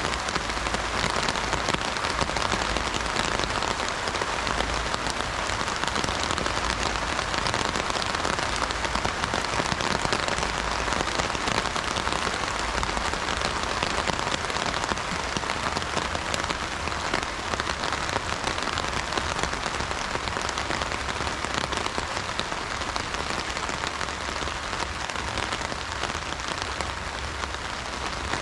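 Heavy rain drumming steadily on an umbrella canopy overhead, a dense patter of drops that keeps up without a break.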